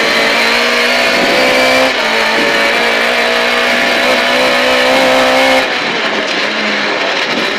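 Lada 2107 rally car's engine heard from inside the cabin at full throttle, its note climbing slowly with a short break about two seconds in, as at an upshift. About two seconds before the end the note and loudness drop as the throttle comes off, lifting for a slow-down chicane ahead.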